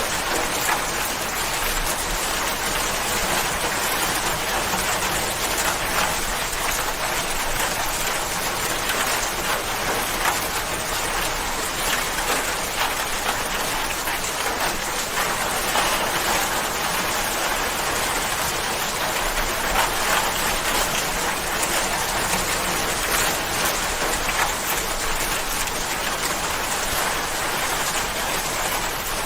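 Steady, even rain falling, with a continuous patter of raindrops on surfaces.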